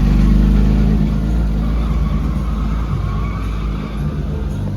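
A car engine accelerating past, loudest about half a second in, then fading steadily as the car pulls away.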